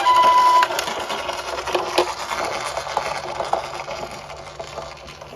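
Small diecast toy cars rattling and clicking as they roll down a slope, a dense clatter that slowly fades. A short electronic beep tone sounds at the very start.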